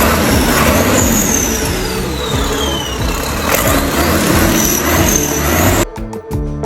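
Heavy diesel truck engine running loud, with a high whistle that slides down in pitch and then holds. About six seconds in it cuts off abruptly and plucked-string music begins.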